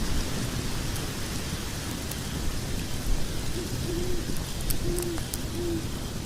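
Log fire burning in a fireplace: a steady low rumble of flames with scattered sharp crackles and pops. Past the middle come four short, low hoot-like tones.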